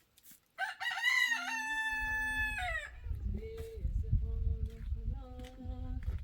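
A rooster crows once, loud and long, about half a second in, its call held and then dropping at the end. Two fainter, lower calls follow over a low rumble.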